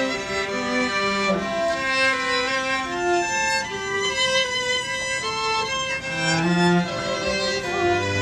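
Solo violin playing a flowing melody, one sustained note after another.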